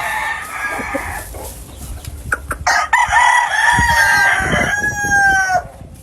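Gamefowl roosters crowing, with other chickens calling: one long crow starts about halfway through and drops in pitch as it ends.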